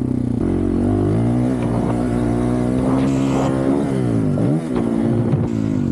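Honda CRF450RL's single-cylinder four-stroke engine, fitted with a titanium Yoshimura RS-4 exhaust, held at high revs on the run-up to a motocross jump. The revs drop away about four seconds in as the throttle is closed over the jump, dip briefly, then pick back up near the end.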